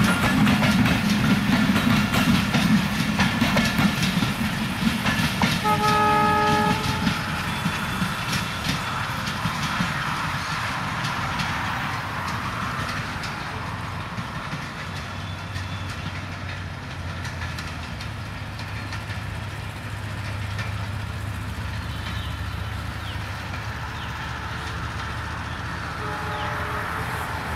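Passenger train coaches rolling past on the track, rumbling and clattering, with a short train horn blast about six seconds in. After that the train noise is quieter and steady as the coaches roll away, and a faint short horn sounds near the end.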